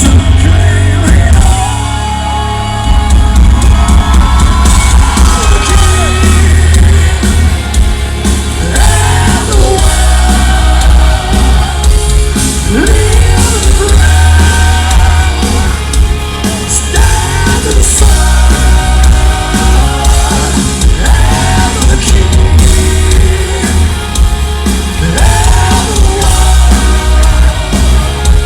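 Live heavy metal band with distorted guitars, heavy bass and drums, and sung vocals with shouted parts, loud and clipping on the recording.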